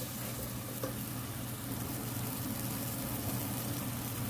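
Oil sizzling steadily in a steel pot as a ginger and green-chilli masala with whole spices is fried, with a steady low hum underneath and one light tap just under a second in.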